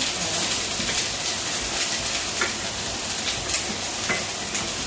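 Meatballs frying in a pan with browned garlic and onion, a steady sizzle with scattered crackles, as a spatula stirs them.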